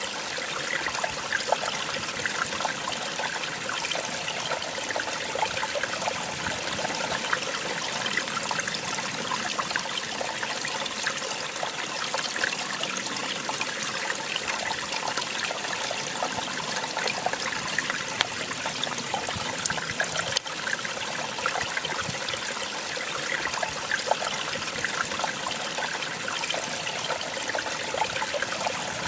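Small waterfall splashing and trickling steadily, a constant bright rush of falling water.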